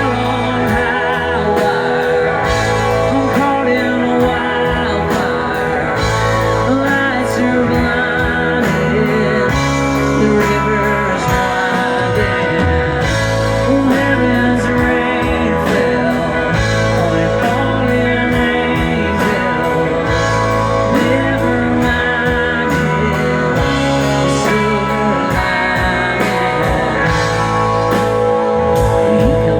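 A rock band playing live: guitar carrying a passage with no sung words, over bass and drums.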